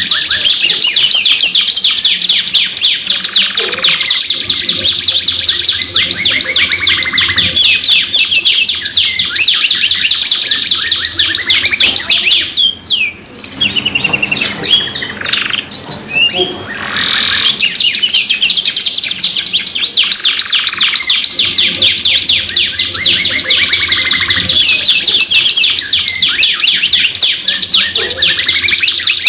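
Domestic canaries singing long, unbroken song of fast rolling trills, one phrase straight into the next. About halfway through the song thins out for a few seconds into quieter, broken-up notes and slides, then the dense trilling resumes.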